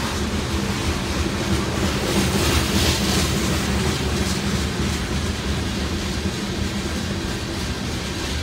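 Covered hopper cars of a freight grain train rolling past close by: a steady rumble of steel wheels on rail, a little louder about two to three seconds in.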